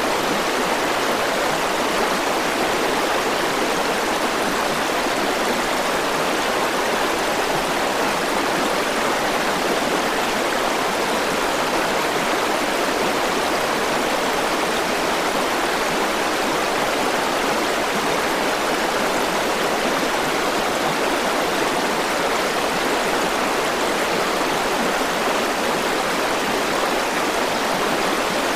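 River water flowing steadily over rocks, an even rushing without breaks.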